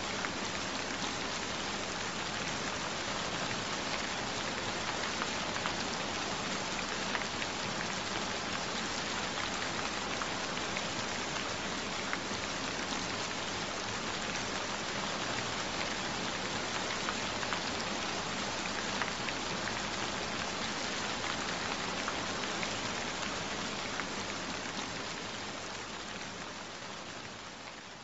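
Steady rain falling, an even hiss of many small drops, fading out over the last few seconds.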